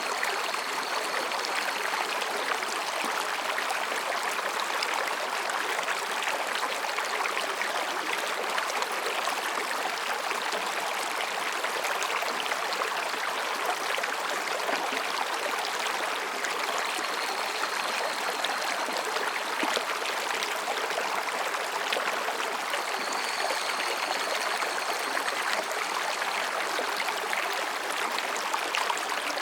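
Mountain stream babbling steadily over and between rocks, an even rush of water without a break. A faint high trill of higurashi cicadas comes and goes a few times behind it.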